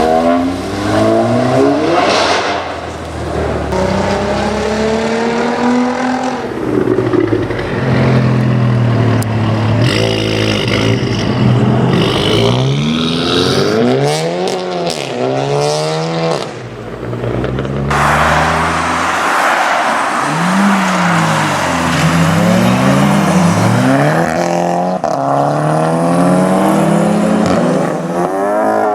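Volkswagen Golf's turbocharged four-cylinder engine revving and accelerating, its pitch rising and falling again and again over a series of short takes. About two-thirds of the way through, a loud rushing noise joins the engine as it pulls hard.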